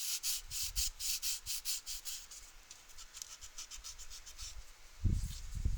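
Sandpaper rubbed by hand over dried spackle in quick back-and-forth strokes, about five scratchy strokes a second, growing finer and quicker midway. About five seconds in, a few low knocks join the scraping.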